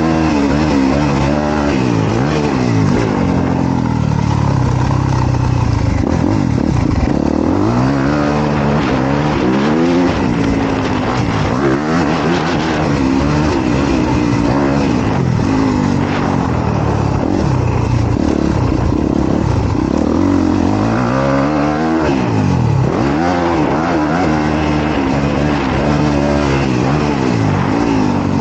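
Honda CRF250R dirt bike's single-cylinder four-stroke engine revving up and down again and again as it is ridden, the pitch rising under throttle and dropping off every few seconds.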